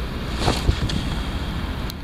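Steady rumbling wind noise on the microphone, with a brief rustle about half a second in and a couple of small clicks.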